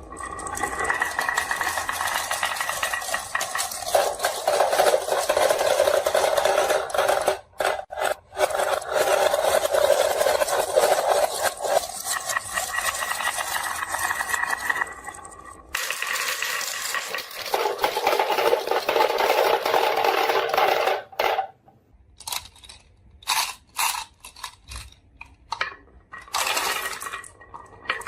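Marbles rolling and clattering down a marble run track: a dense continuous rattle of clicks that breaks off about three-quarters of the way through into scattered separate clicks and short rolls.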